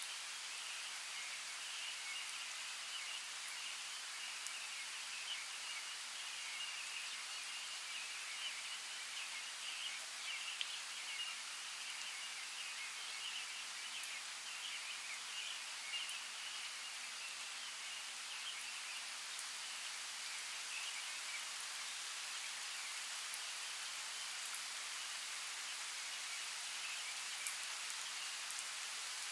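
Steady forest ambience: an even hiss like light rain, with faint high chirping throughout and a few small ticks.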